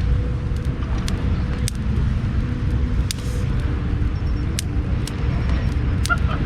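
Large wood bonfire burning: a steady low rumble with sharp crackles and pops every second or so.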